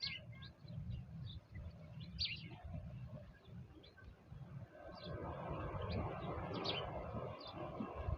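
Small birds chirping, short high chirps scattered over a low rumble outdoors. About five seconds in, a steady rushing noise swells up beneath them and stays.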